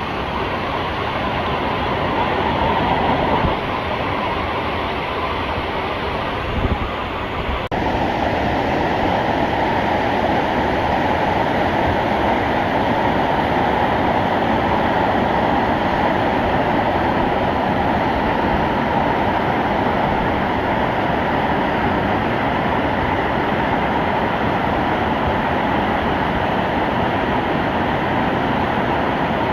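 Steady loud rushing of a mountain stream's flowing water, with an abrupt change in its character about seven and a half seconds in.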